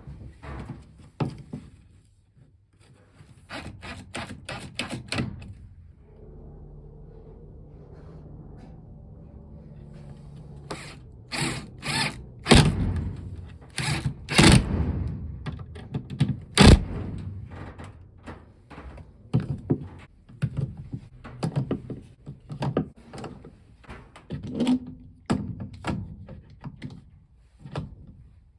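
Repeated wooden knocks and thunks as timber parts are handled and fitted in the workshop, loudest near the middle. For several seconds before that, a small motor runs with a steady hum.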